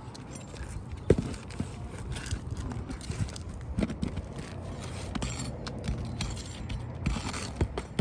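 Hammer working at roofing nails in asphalt shingles: scraping and prying with scattered metal clicks, and one sharp knock about a second in.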